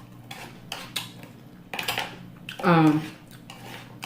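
Cutlery clinking and scraping on a plate during eating, a series of light clicks. About two and a half seconds in comes a short, loud vocal sound from the eater, the loudest moment.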